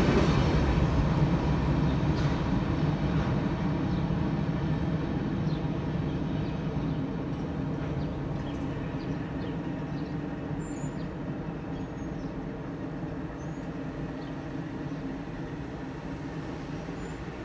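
Freight train rolling away from the crossing, its low rumble fading steadily.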